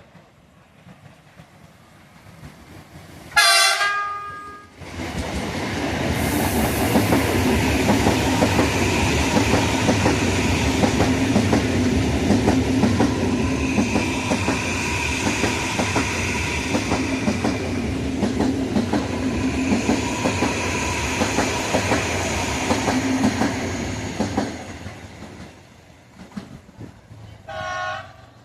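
A train's horn sounds once, then the train passes close by for about twenty seconds: a steady rumble with a rapid clickety-clack of wheels over the rails, fading away at the end. A shorter horn blast comes near the end.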